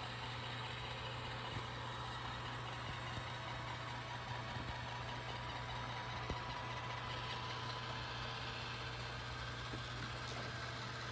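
Roomba Combo 10 Max robot vacuum running with a steady, even hum.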